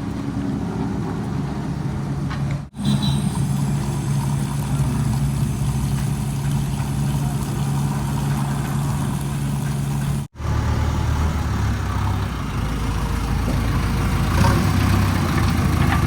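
Heavy diesel engine of a backhoe loader or tractor running steadily. The sound drops out sharply twice, and after the second break a lower, deeper engine note takes over.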